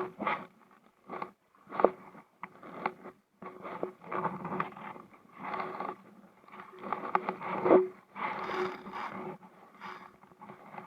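Kayak paddling on an inflatable Sea Eagle SE370: irregular strokes and splashes with scrapes and knocks against the hull, about one a second.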